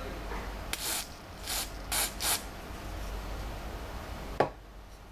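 Four short hisses of an aerosol contact cleaner sprayed in quick bursts onto the scanner's carriage sensor, followed a couple of seconds later by a single sharp click.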